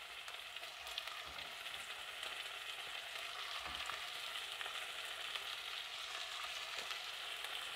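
Oil sizzling steadily in a pot as chicken pieces and chopped onion fry in it.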